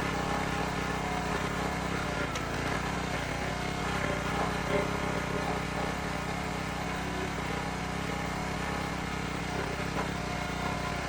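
A steady, even motor drone, like an engine running at constant speed.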